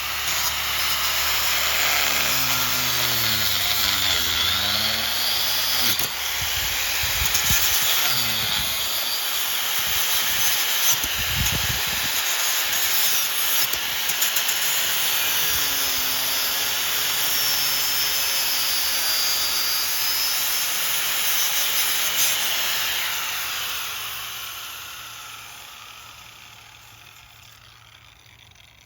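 Electric angle grinder cutting through thick old steel with an abrasive wheel: a steady, harsh grinding, the motor's pitch dipping and rising as the wheel bites. Near the end the sound slowly dies away.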